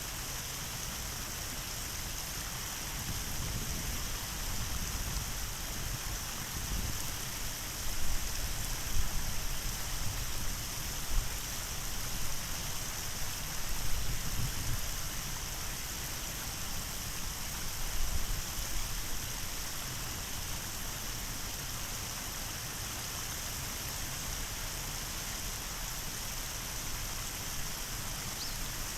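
Steady rush of running water from a small waterfall or stream, with some low rumbling bumps partway through.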